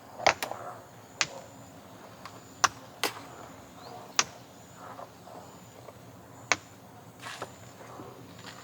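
A series of sharp, irregular clicks and knocks, about ten of them spaced unevenly, as of small objects being handled and set down.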